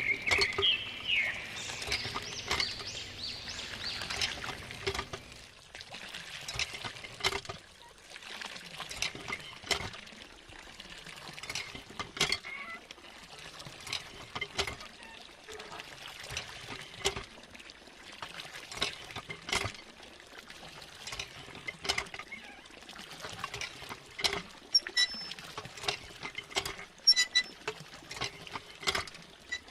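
Water pouring and trickling, with many small irregular clicks and clinks.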